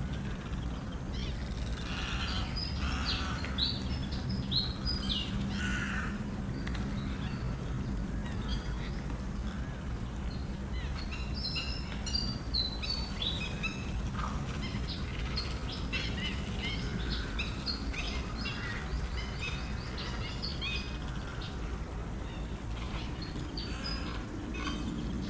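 Many small birds chirping in quick, short high calls, in clusters with brief lulls, over a steady low rumble.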